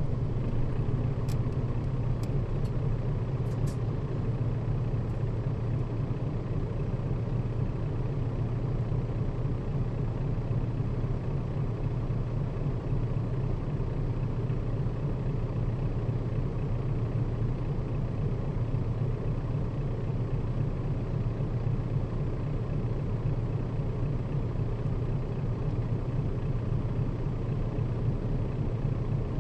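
Steady low engine and road drone heard inside a Nissan Diesel KL-RA552RBN bus as it drives along, with a few faint ticks in the first few seconds.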